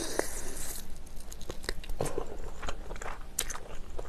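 Close-miked mouth sounds of eating spicy braised chicken: chewing with many small wet clicks and smacks, scattered irregularly.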